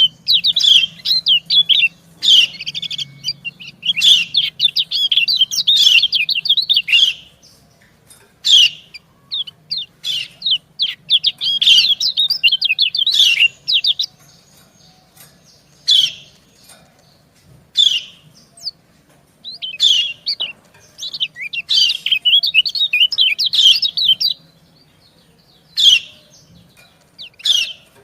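Lemon-bellied white-eyes (kecial kuning) calling: the female's rapid, high 'ciak' chirps exchanged with the male's. The calls come in quick runs of twittering notes, broken by short pauses and single sharp calls.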